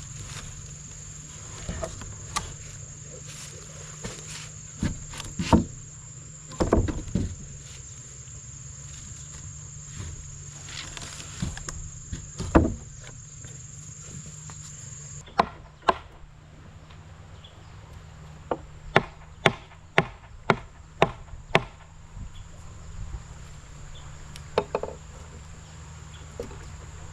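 Scattered sharp knocks of blows on wood, then a regular run of about seven strikes, two a second, a little past the middle. Under them runs a steady high insect drone that drops away suddenly about halfway through.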